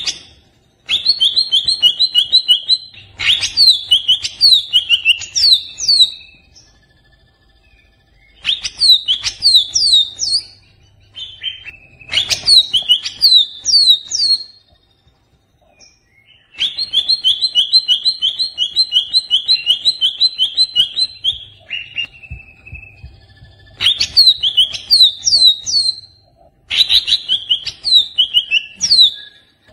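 Greater green leafbird (cucak ijo) singing in agitated bursts: about six loud phrases of rapid, high chirps and down-slurred notes, each a few seconds long, with short pauses between them.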